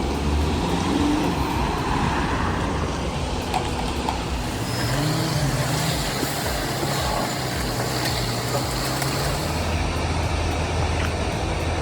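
Heavy truck engines running with road and traffic noise; an engine note comes up about five seconds in and holds for several seconds.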